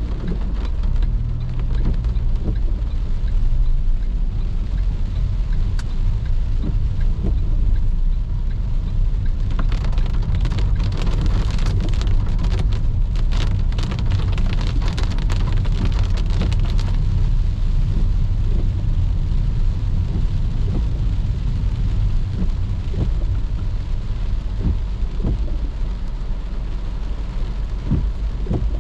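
Rain pattering on a moving car over the steady low drone of its engine and tyres on wet road. About a third of the way in, the drops come heavier and denser for several seconds, then ease back.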